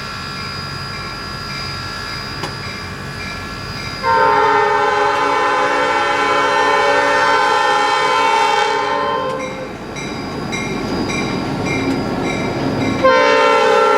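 Steam locomotive #1702's chime whistle blowing one long blast of about six seconds, then starting a second blast near the end, with a bell ringing steadily underneath.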